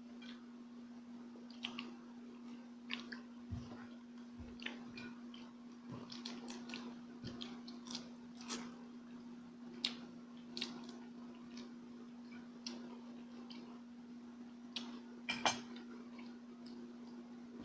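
A person chewing and eating, with many small crunches and wet mouth clicks and a sharper crunch near the end, over a steady low hum.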